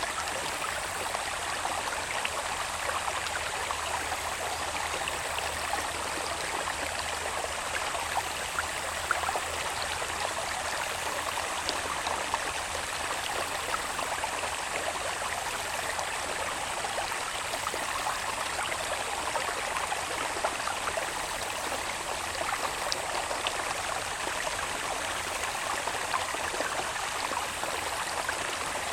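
Water babbling steadily along a small irrigation channel, with a thin, steady high-pitched insect chorus over it.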